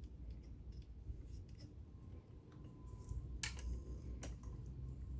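A few light clicks and handling noises from working on the sewing machine's metal mechanism, two sharper clicks about three and a half and four seconds in.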